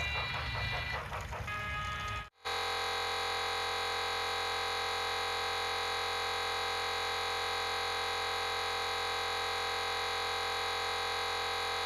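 Music for about two seconds, then, after a brief cut, a steady buzzing tone rich in overtones that holds unchanged until it stops abruptly.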